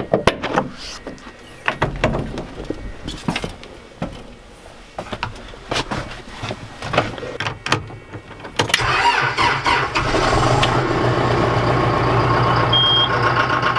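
Scattered clicks and knocks, then about nine seconds in a tractor engine starts and settles into a steady idle: a cold start at about 28 degrees, with the engine left to warm up. A short high beep sounds near the end.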